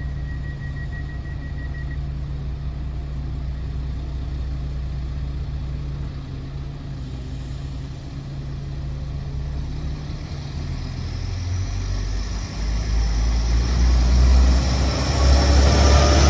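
Diesel train engine idling with a steady low hum. From about two-thirds in it grows louder, and rising whines come in near the end as it speeds up.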